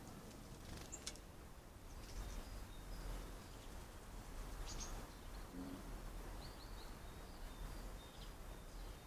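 Wild birds chirping faintly, with short high calls scattered through and a couple of sharper notes, over a low steady background rumble.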